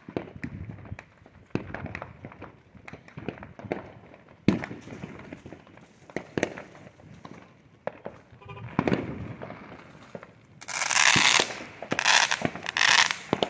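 Neighbourhood fireworks and firecrackers going off all around, sharp pops at irregular intervals with a loud bang about four and a half seconds in. Near the end, three loud bursts of crackling hiss come as an aerial firework bursts overhead.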